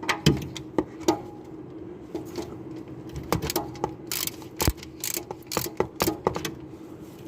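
Irregular metallic clicks and clacks of hand tools and parts being worked at a worn, noisy rear differential, over a steady low hum.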